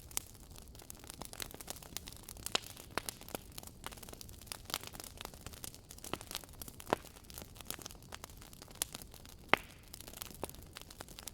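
Campfire crackling: irregular sharp pops and snaps of burning wood over a soft hiss, with a few louder pops near the middle and about two-thirds of the way through.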